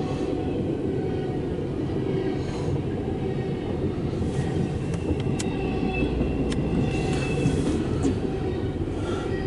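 Intermodal freight train cars rolling past at speed, heard from inside a car: a steady rumble of wheels on rail. About halfway through come a few sharp clicks and a faint wheel squeal.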